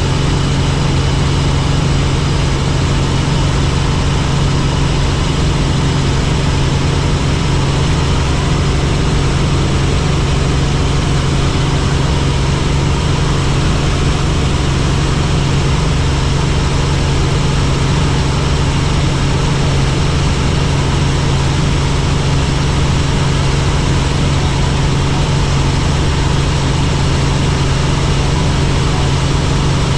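Helicopter engine and rotor running steadily, a loud, unchanging drone with a strong low hum.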